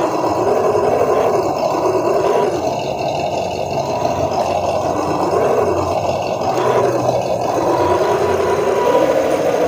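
Small RC off-road truck's electric motor and gear drive whining, the pitch rising and falling repeatedly as the throttle is worked.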